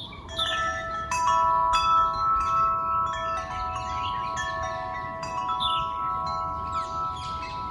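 Wind chimes ringing: several clear tones struck one after another from about half a second in, each left to ring on and overlap with the others.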